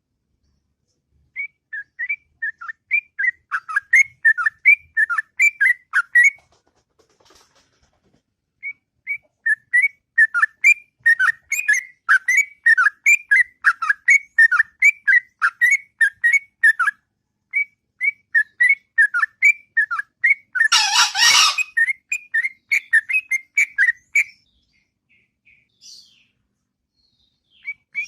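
Sooty-headed bulbul (trucuk) singing long runs of quick whistled notes, several a second, in three long phrases with short pauses between them. There is a brief burst of noise about two-thirds of the way through.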